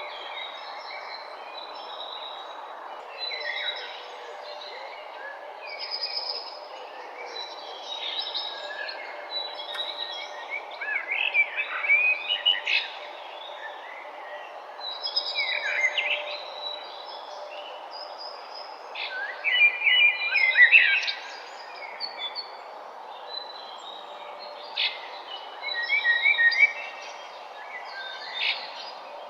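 Morning birdsong: several birds chirping and trilling in overlapping short phrases, over a steady background hiss. The song comes in bursts, loudest about a third of the way in and again about two-thirds in.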